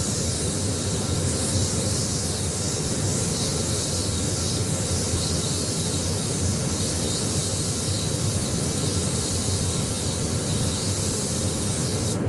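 Air spray gun hissing steadily as it sprays paint, over a low hum, with the hiss cutting out briefly at the very end as the trigger is let go.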